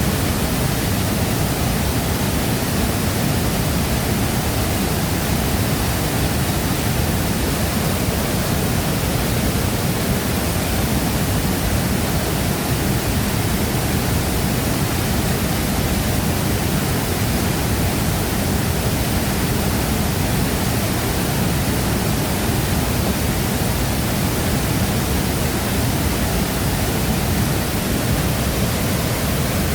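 Large waterfall: falling water making a loud, even rushing noise that stays steady throughout.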